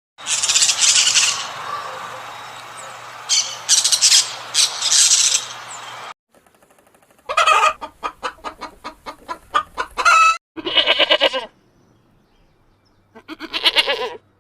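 Chickens clucking: a rapid run of clucks and short calls, in several abruptly spliced clips, after a stretch of hissing noise with sharp high bursts.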